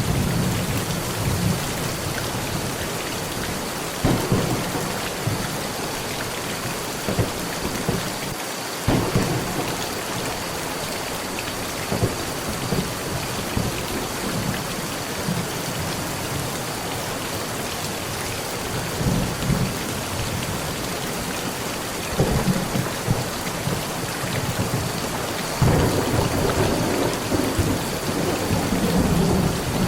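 Heavy rain falling steadily on a metal roof while thunder rumbles repeatedly. There are sudden claps about 4 and 9 seconds in, and longer rolls of thunder near the end.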